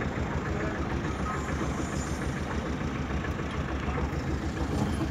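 Vehicle engine running with a steady, pulsing low rumble, heard from inside the car.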